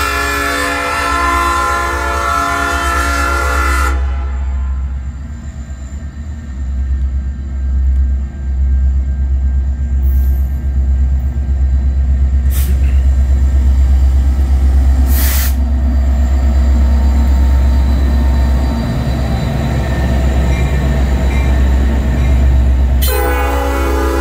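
A freight train's EMD SD70-series diesel locomotives approach and pass. The multi-note air horn sounds, cuts off about four seconds in, and sounds again near the end as the lead units go by. Between horn blasts the diesel engines rumble, growing louder as the train nears, with two brief hisses in the middle.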